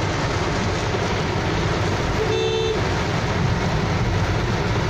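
Heavy rain drumming on a car's roof and windshield, heard from inside the cabin over a low engine and road rumble. About two seconds in comes a short horn toot, about half a second long.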